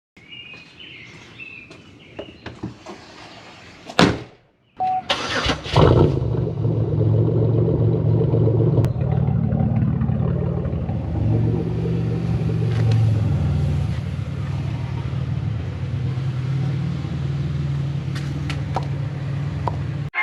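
A sharp knock about four seconds in, then the Pontiac Bonneville's 3800 V6 starts about a second later and runs steadily through a straight-piped exhaust.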